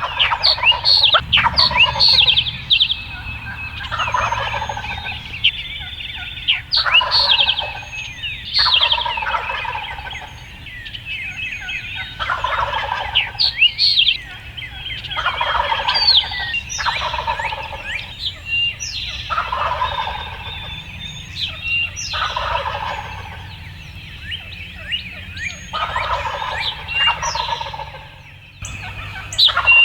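Wild turkey gobblers gobbling hard and repeatedly, a loud rattling gobble every one to three seconds, some overlapping. Small songbirds chirp in the background.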